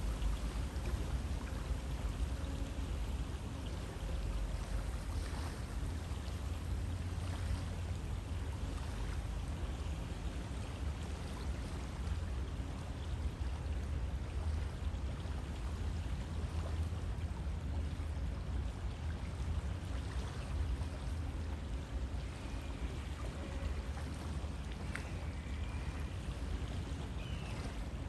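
River water flowing steadily, a constant even rushing with a deep low rumble.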